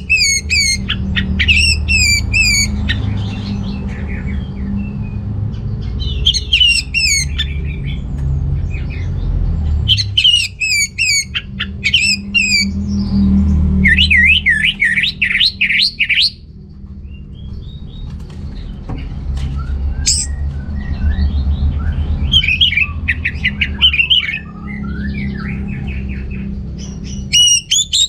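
Orange-headed thrush in full song: loud, rapid, varied whistled and chattering phrases delivered in bursts of a few seconds with short pauses between, over a steady low rumble.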